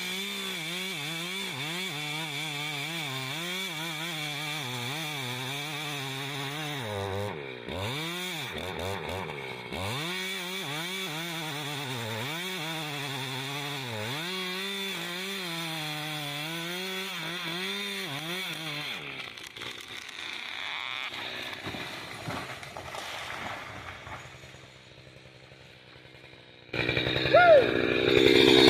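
Chainsaw cutting oak, its engine pitch dropping under load and rising again over and over. It then falls away and fades. Near the end a chainsaw cuts in much louder and closer.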